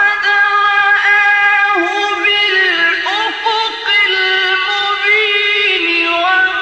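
Quran recitation in the melodic, ornamented style: a single high male voice holding long notes, with gliding turns between pitches and brief breaths.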